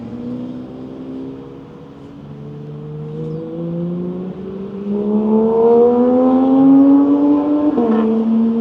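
A car engine accelerating hard, its note climbing steadily and getting louder, dropping at gear changes about two seconds in and again near the end.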